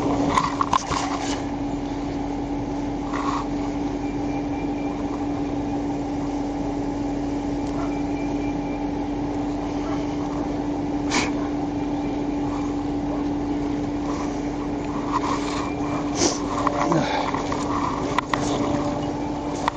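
Steady vehicle running noise with a constant low hum, broken by a few short clicks.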